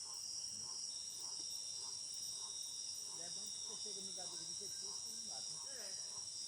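Steady chorus of rainforest insects such as crickets, a continuous high-pitched shrill that never breaks. Beneath it, a fainter lower note repeats roughly every half second.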